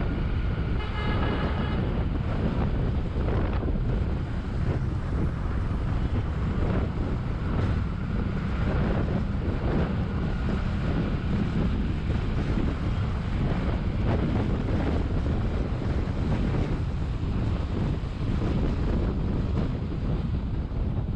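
Wind buffeting the microphone on a moving Bajaj Vikrant V15 motorcycle, over the steady running of its 150 cc single-cylinder engine. A vehicle horn sounds briefly about a second in.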